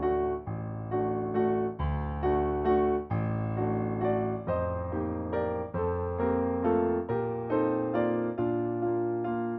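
Solo piano music: a steady, gentle run of notes over deep bass notes that change about every second.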